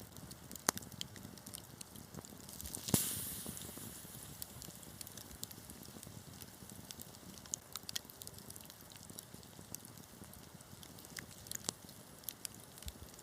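Wood fire crackling, with irregular small snaps and pops throughout. A louder pop comes about three seconds in, followed by a short hiss.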